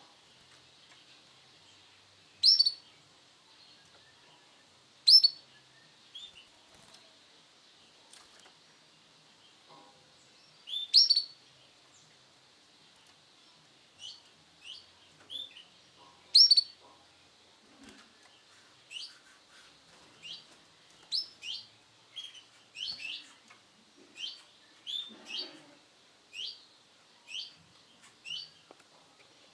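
Male canary giving short, sharp chirps: a few loud single ones several seconds apart, then coming about once a second through the second half.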